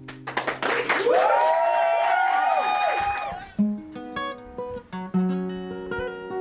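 Acoustic guitar: a loud, dense strummed passage for about three and a half seconds, then single picked notes opening the next tune.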